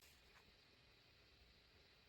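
Near silence: room tone with a couple of faint small ticks.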